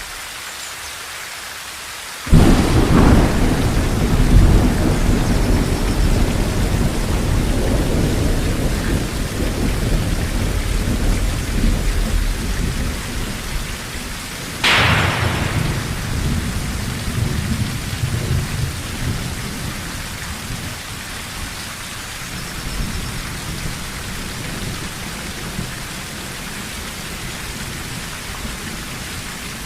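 Steady rain on a tin roof, with two sudden thunderclaps. The first comes about two seconds in and rumbles on for several seconds. The second comes about halfway through and rumbles away more briefly.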